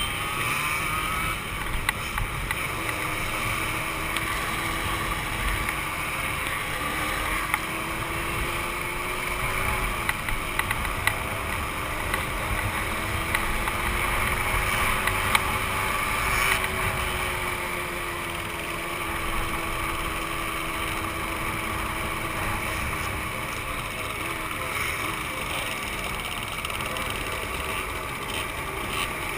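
Two-stroke motorcycle engines running steadily, with an engine tone that slowly rises and falls.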